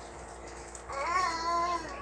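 A toddler babbling: one sing-song, wordless vocal sound that starts about a second in.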